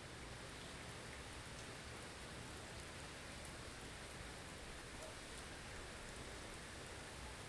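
Blizzard ambience: a steady, even hiss of wind-driven snow, with faint scattered ticks of particles striking.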